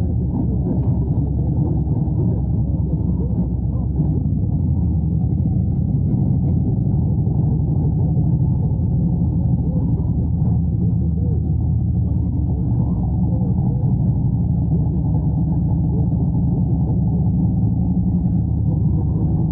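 Harley-Davidson Road Glide's V-twin engine running steadily at low speed, a low rumble with little change in pitch.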